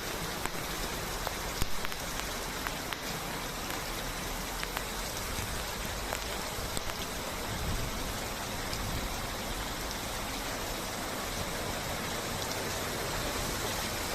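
Rain falling steadily, an even hiss with a few sharp drop ticks scattered through it.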